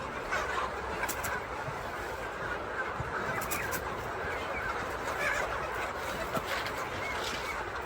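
Chickens clucking and calling over a steady background noise, with a few short sharp clicks.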